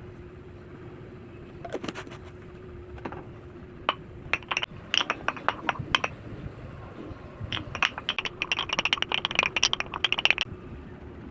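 Clicking and clattering of small hard objects knocking together: a few clicks about two seconds in, scattered ones in the middle, then a dense rapid run near the end, over a faint steady hum.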